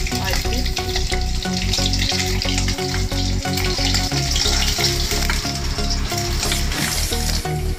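Boiled eggs sizzling as they fry in hot oil in an aluminium kadhai, with a metal spatula scraping and knocking against the pan as the eggs are turned and lifted out.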